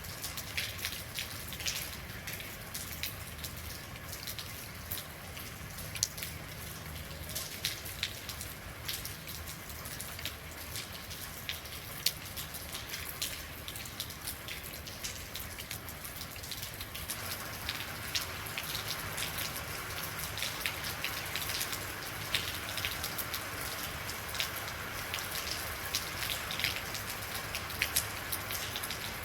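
Real rainfall: a steady patter of rain with many individual drops ticking sharply close by. A little past halfway the hiss of the rain grows fuller.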